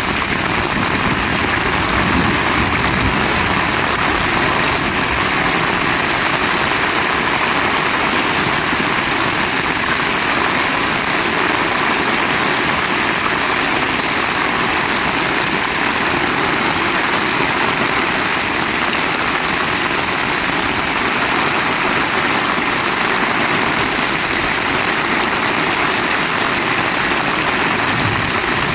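Heavy rain falling steadily in a constant, dense hiss.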